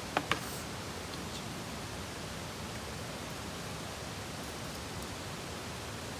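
A steady hiss, with two short sharp clicks in quick succession right at the start.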